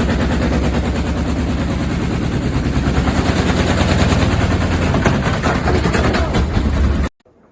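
Front-loading washing machine running fast, likely on spin, with a strong low hum and a rapid, dense rattle that grows a little louder, then cuts off suddenly near the end.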